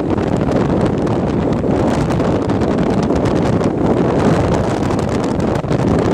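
Strong wind buffeting the microphone: a loud, steady rumbling rush of wind noise.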